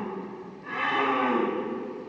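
A cow mooing: the end of one low call, then a second drawn-out moo starting under a second in, which falls in pitch at its end.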